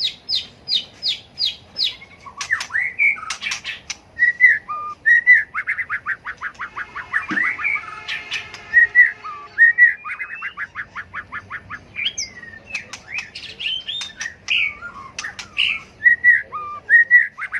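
White-rumped shama singing a varied competitive song: clear whistles and fast runs of repeated notes, broken by sharp clicks.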